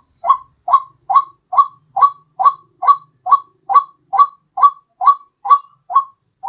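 White-breasted waterhen call, a lure recording: a steady run of short, evenly spaced calls, about two a second, each rising slightly in pitch.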